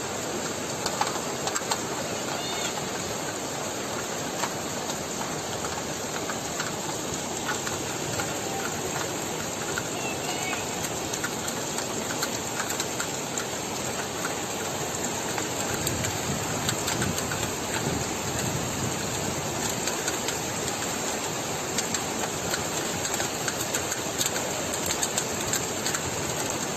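Steady rushing noise of floodwater and rain, with a few faint short chirps.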